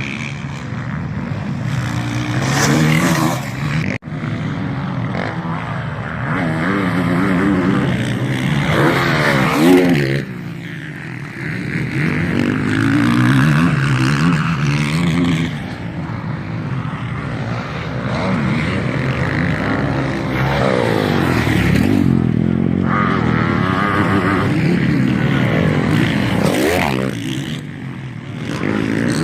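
MX1 motocross bikes racing, their engines revving up and falling off through the gears, swelling louder several times as bikes pass one after another.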